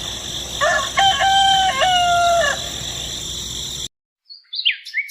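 A rooster crows once, one long call of about two seconds over a steady hiss. The sound cuts off abruptly near the end, and a few quick bird chirps follow.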